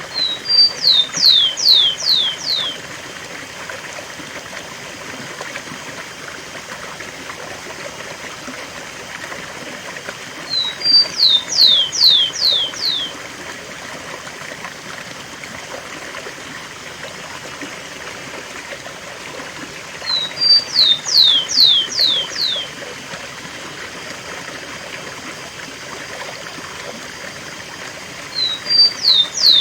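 Rufous-collared sparrow (tico-tico) singing its 'cemitério' song four times, about every nine to ten seconds. Each song is a couple of short high notes followed by four or five quick downward-sweeping whistles. Under it runs the steady rush of a waterfall.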